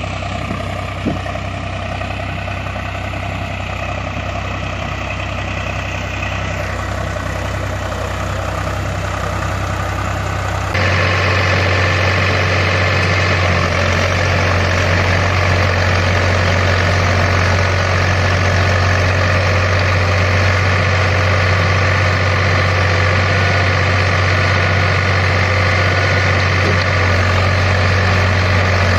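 Heavy diesel machinery running steadily at low revs, with a constant engine hum; about eleven seconds in the sound changes abruptly and becomes a little louder.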